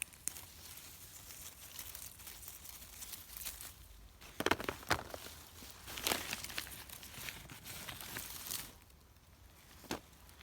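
Plastic bag crinkling and rustling while lingonberries are picked into it, in irregular handling noises with a few sharper, louder crackles about halfway through.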